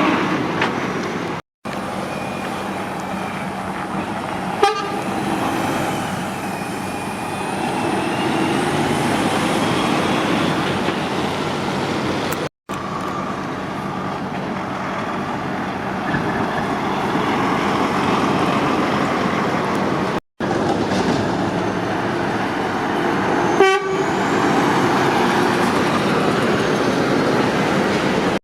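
Motorway traffic with heavy lorries passing, a steady road noise of tyres and engines. Three brief dropouts to silence break it where clips are joined.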